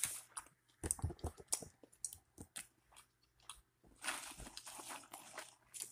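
A person biting and chewing food close to the microphone, with irregular crunches and a longer crunching stretch near the end.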